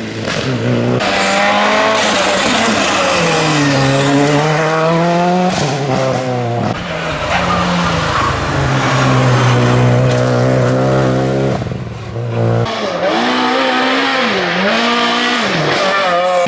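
Rally cars driven hard on a special stage, engines revving up and dropping back through quick gear changes and lifts, with tyres squealing as they slide through corners. The sound changes abruptly about a second in and again about 12 s in.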